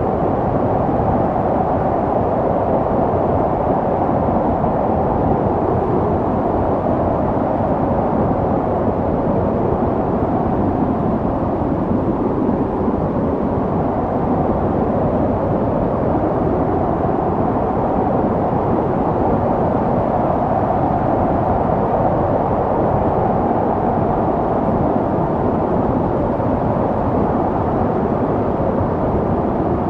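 Snowstorm wind blowing steadily, a low, even rushing noise with no gusts or breaks.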